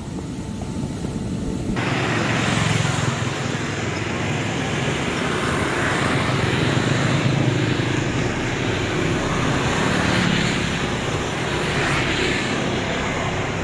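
Fast-flowing muddy floodwater rushing down a swollen stream, a steady loud rush of noise that gets louder and brighter about two seconds in.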